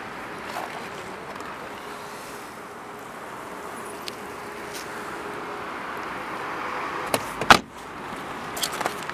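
A steady background hum, then a single heavy thud of a car door being shut about seven and a half seconds in, followed by a few light clicks.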